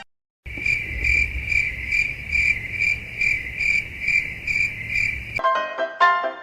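Cricket chirping: a high, even trill pulsing about two and a half times a second over a low rumble. Piano music comes in near the end.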